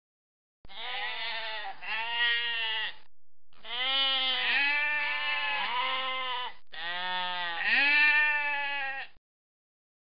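Sheep bleating: a run of wavering bleats lasting about eight seconds, with a short break about three seconds in.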